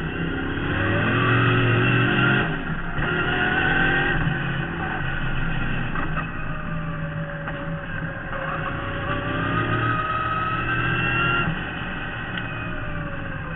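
V8 engine of a Marcos GT race car heard from inside the cockpit under hard acceleration, its pitch climbing, breaking for a gear change about two and a half seconds in and climbing again. The engine holds high revs, then lifts off near the end.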